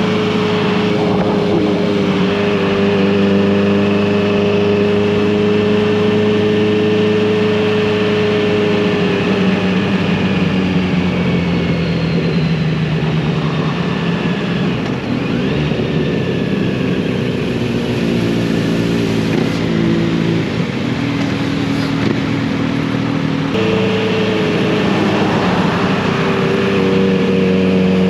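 Kawasaki Z900RS inline-four motorcycle exhausting while riding, over wind and road noise. The engine note holds steady, shifts pitch about two-thirds of the way through, and steps up sharply near the end as the revs change.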